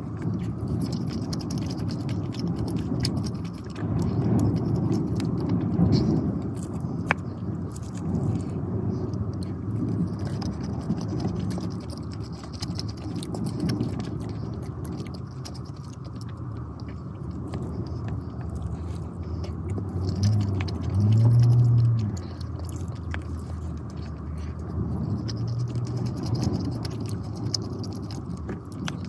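Close-miked chewing and mouth sounds of eating rice and tuna curry, soft and wet, with occasional light clicks of a wooden spoon against a plastic container. A short low hum about two-thirds of the way through is the loudest moment.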